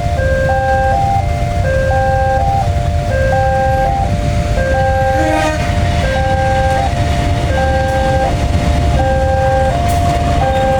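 Level-crossing warning alarm sounding a repeating electronic pattern of alternating tones about once a second, over the steady low rumble of a long train passing.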